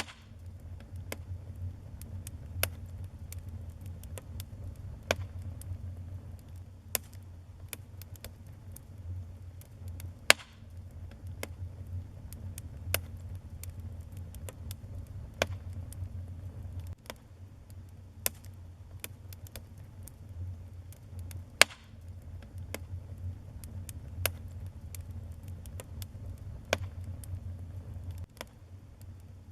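Wood fire burning in a fireplace: irregular sharp crackles and pops over a steady low rumble of the flames, with two louder pops, one about ten seconds in and one a little past twenty seconds.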